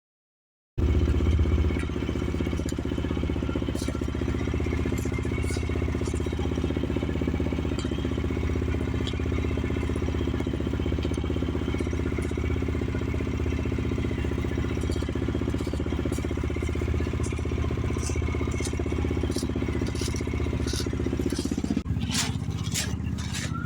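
Motorcycle engine idling steadily, with scattered clicks over it; the engine note changes about 22 seconds in.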